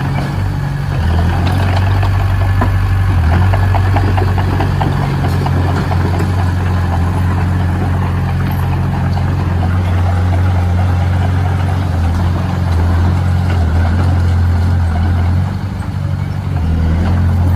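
Heavy construction machine's engine running steadily with a low hum, easing off briefly near the end before picking up again.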